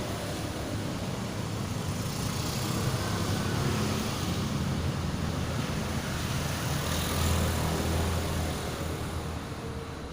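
Motor vehicle engine running, a low rumble under a steady hiss that swells about seven seconds in and fades near the end.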